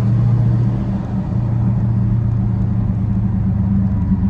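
Dodge Challenger SRT 392's 6.4-litre HEMI V8 running at a steady drone, heard from inside the cabin while driving, with a little dip about a second in.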